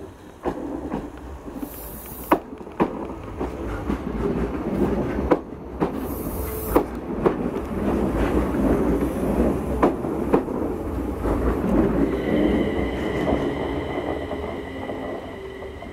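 Enshu Railway 2000 series electric train rolling slowly past at close range, its wheels clacking sharply and irregularly over rail joints and points over a steady low rumble. About twelve seconds in a steady high-pitched squeal sets in as the train slows into the terminus.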